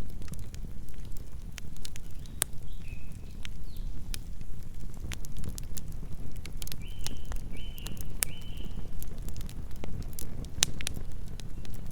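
Campfire burning, with irregular sharp crackles and pops from the wood over a steady low rumble. A few short high chirps also sound, one or two about two and a half seconds in and three in quick succession near the middle.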